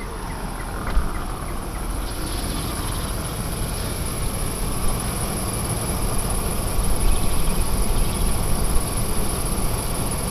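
2004 Chevy Suburban's 5.3 L V8 idling with its electric cooling fans running on high, loaded by the lights and AC during a charging check. A steady high-pitched insect drone sits over it.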